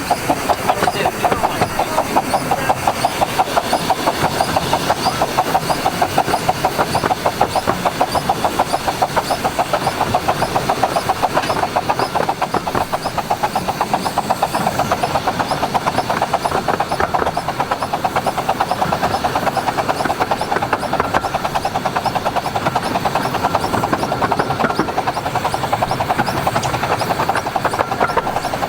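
A miniature-railway train running steadily along the line, with a fast, even rhythm of beats, about three a second.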